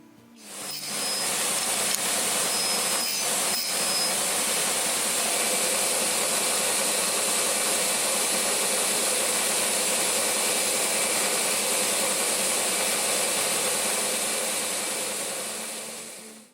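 A power woodworking tool runs steadily with a loud, even noise, building up over about the first second as it comes up to speed. It cuts off abruptly near the end.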